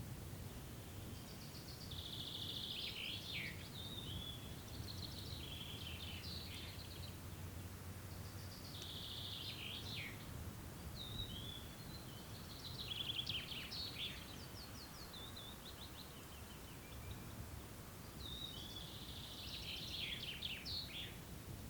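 A songbird singing in short, quick, high-pitched phrases of trills and sweeps, repeated every few seconds, over a steady low background rumble.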